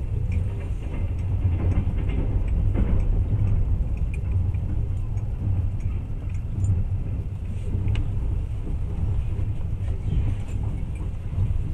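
Steady low rumble of a moving passenger train heard from inside the carriage, with faint scattered clicks and rattles.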